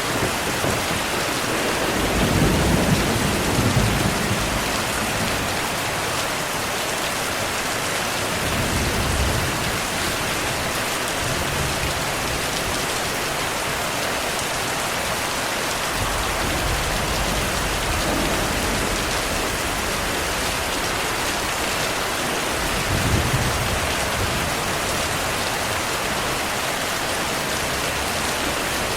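Heavy, steady rainfall with low rolls of thunder swelling several times, the strongest a couple of seconds in and again about three-quarters of the way through.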